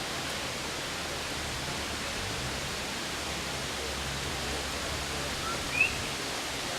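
Steady rushing of a rainforest mountain stream, a constant hiss of flowing water. A single short rising chirp comes through near the end.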